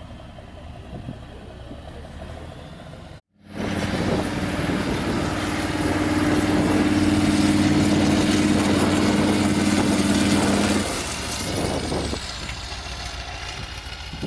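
Diesel engine of an off-road trial truck, quietly running at first, then, after a sudden break, working hard at steady high revs for about seven seconds before easing off.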